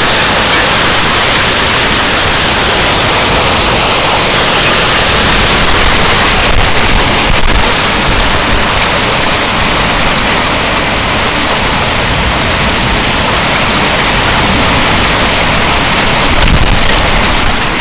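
Heavy rain and wind of a severe storm: a loud, steady rushing noise with a low rumble, swelling slightly about seven seconds in and again near the end.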